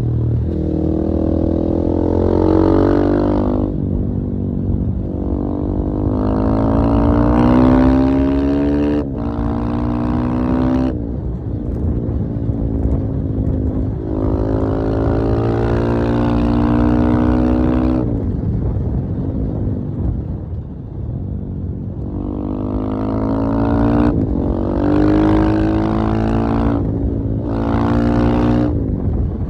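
KTM 450 EXC-F enduro motorcycle's single-cylinder four-stroke engine revving up and dropping back about six times, each time the pitch climbing for one to three seconds, sometimes cutting off sharply.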